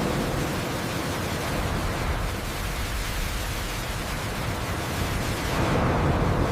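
A steady rushing noise with no distinct pitch or rhythm, swelling a little near the end.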